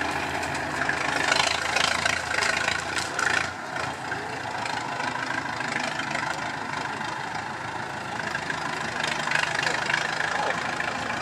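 Heavy truck engine idling steadily, with a rougher, louder stretch in the first few seconds.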